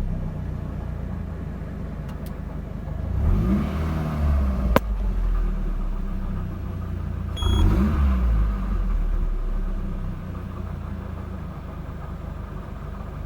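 Peugeot 206's 2.0-litre 16-valve petrol engine running, blipped twice, with one sharp click between the revs. The owner suspects the noise comes from the manifold.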